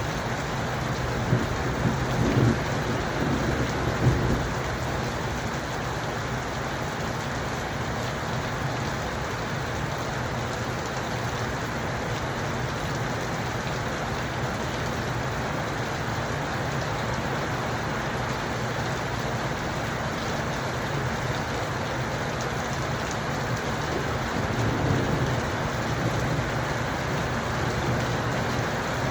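Steady rain falling, with low rolls of thunder rumbling in the first few seconds and again near the end.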